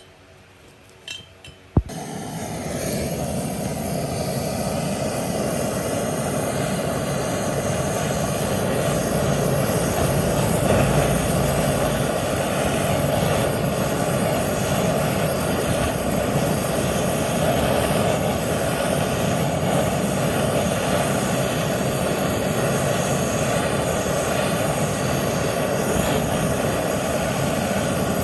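A power tool or machine motor is switched on with a click about two seconds in, builds up over the next couple of seconds and runs steadily, then stops at the very end.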